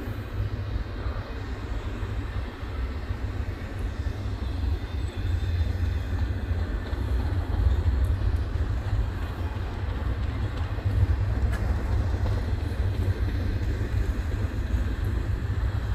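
Double-stack intermodal container well cars rolling past, a steady deep rumble of steel wheels on the rails.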